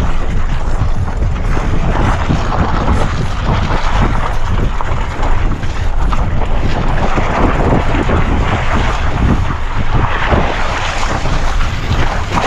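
Strong snowstorm wind gusting hard and buffeting the microphone, a dense rushing roar with heavy low rumble that swells and dips.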